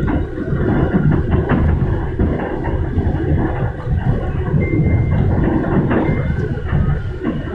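MRT-3 ČKD Tatra light-rail train running, heard from inside the car: a steady low rumble of wheels and traction motors, with a few sharp clicks and a brief thin high tone about halfway through.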